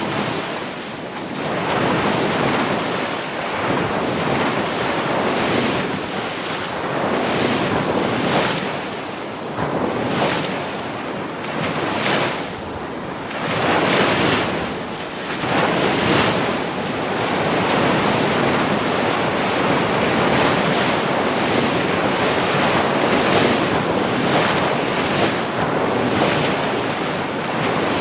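Ocean surf breaking and washing ashore in a continuous rush that swells and eases every few seconds.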